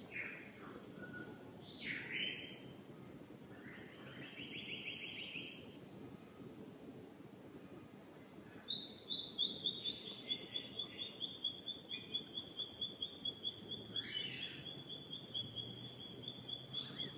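Wild birds calling at dawn: scattered high chirps, a short trill about four seconds in, and from about nine seconds in one bird repeating a high note rapidly, about four times a second, over faint outdoor background noise.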